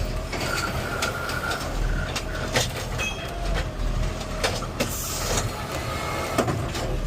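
Garbage truck running, with a steady low engine rumble, many short knocks and rattles, and a faint whine.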